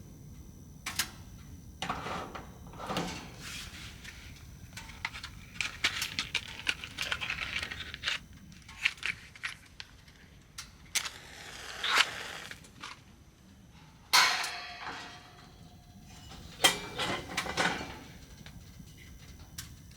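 Objects being handled at close range: a string of irregular clicks, knocks and clatters with stretches of rustling, the loudest knocks about two-thirds of the way through.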